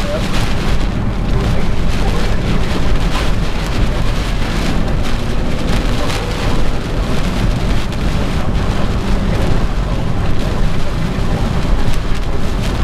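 Heavy rain beating on a moving car, a dense patter of drops over a steady low rumble of road and engine noise.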